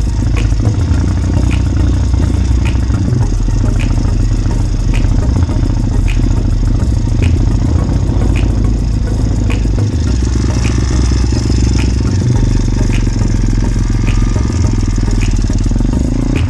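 Motorbike engine running steadily while being ridden, with a heavy low rumble and a light regular tick a little under twice a second.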